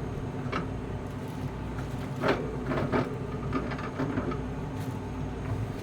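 Scrubbing and scraping with a soapy wire scrubber inside a freezer, with scattered sharp clicks and knocks of the plastic surfaces, over a steady low hum.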